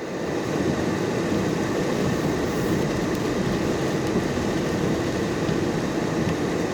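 Vehicle heater blower running on defrost inside the cab, a steady rushing noise with no breaks.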